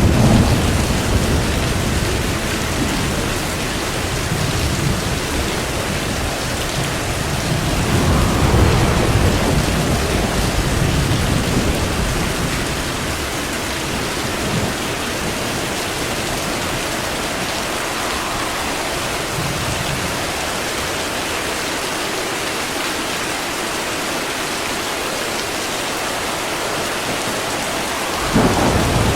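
Steady rain hissing down during a thunderstorm, with rolling thunder: a rumble right at the start, a longer swelling rumble from about 8 to 12 seconds in, and a sudden clap near the end.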